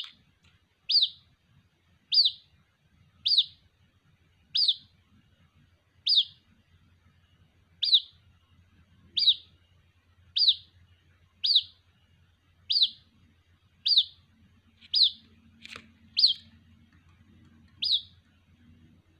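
White-breasted waterhen chick calling for its mother: a short, high, downward-sweeping peep repeated evenly about once a second.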